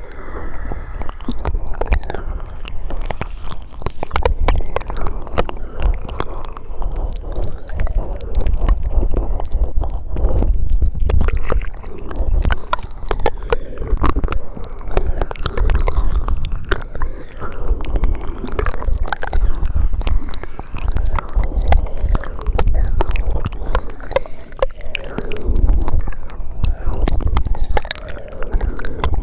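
ASMR mouth sounds made right at the microphone: a continuous, dense run of lip and tongue clicks and smacks, over a heavy low rumble.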